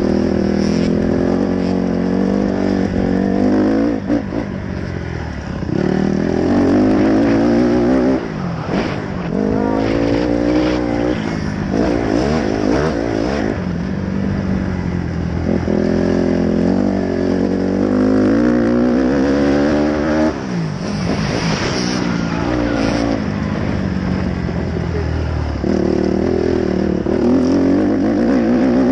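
Dirt bike engine running under way, its pitch repeatedly climbing as the throttle opens and dropping back every few seconds.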